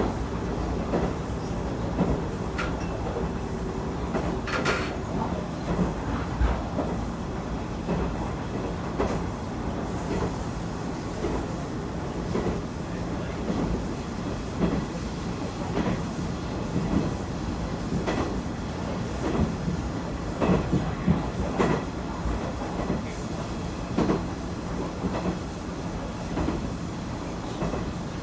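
KiHa 110 diesel railcar running along the line, heard from on board: a steady running rumble and engine hum with irregular clicks and knocks of the wheels over rail joints. A thin high-pitched wheel squeal sets in about a third of the way through.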